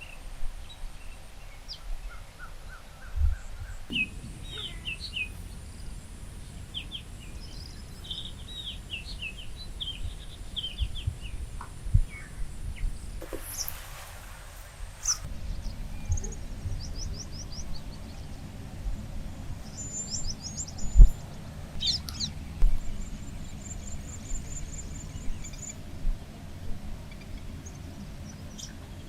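Small birds chirping and calling in short, quick notes and brief rapid trills, over a low background rumble with a few dull thumps.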